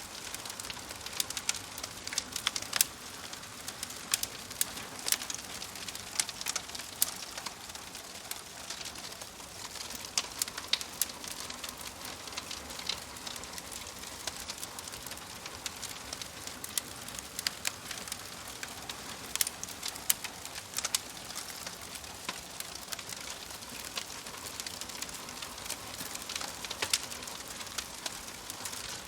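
Wood fire crackling in a wood-burning stove: a steady hiss of burning wood with frequent sharp, irregular pops and snaps.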